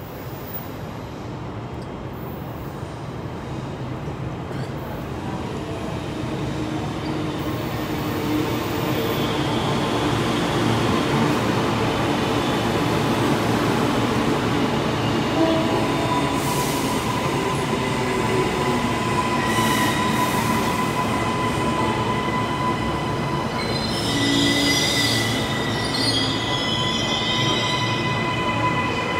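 Train moving through the station, growing louder over the first ten seconds or so and then running steadily. About halfway through a thin, high steady squeal comes in from the wheels, with sharper squeals later on.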